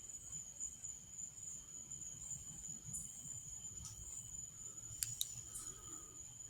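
Faint steady high-pitched insect trill, typical of crickets at night, with a few soft clicks near the middle.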